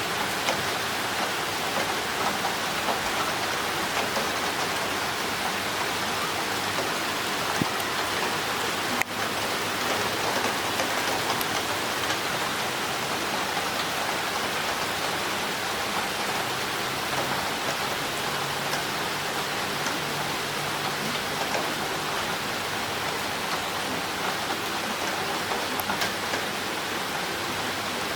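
Heavy rain with water running down a drainpipe: a steady rushing hiss dotted with small drip ticks, and a single sharp click about nine seconds in.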